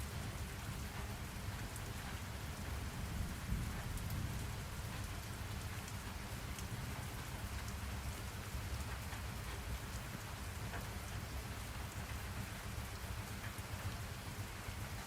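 Steady rain falling, an even patter of drops over a low continuous rumble, with a slight swell about three to four seconds in.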